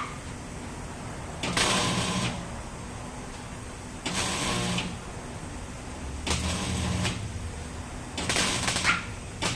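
Electric arc welder striking four short welds, each under a second, about two seconds apart: a crackling hiss over a low electrical hum while the arc runs.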